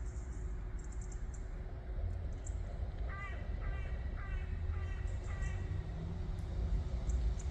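A crow cawing five times in quick succession, about half a second apart, over a steady low background rumble.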